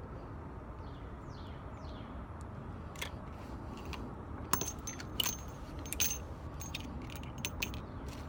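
Sharp metallic clicks and clinks of a revolver and its brass cartridges being handled on the bench, an uneven string of taps over the second half, over a steady low rumble of outdoor range ambience.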